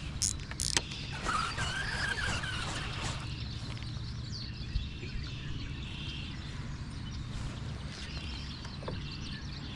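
Birds chirping over a steady low hum, with two sharp clicks near the start.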